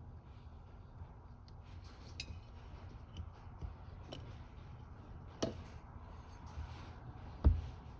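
Small clicks and clinks of aluminium carburetor parts being handled on a bench, with a sharper click about five seconds in and a dull thump near the end.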